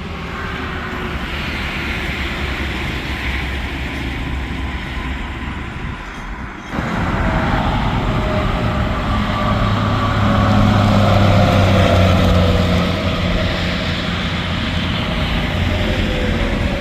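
Interstate highway traffic: tractor-trailers passing at speed with tyre and diesel engine noise. About seven seconds in the sound breaks off abruptly and resumes louder, with a passing semi truck's low engine hum and a higher tone that slowly falls in pitch as it goes by.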